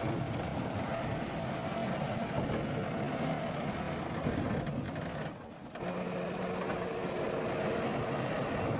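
Heavy earthmoving machine engine running steadily under work, dipping away briefly about five and a half seconds in.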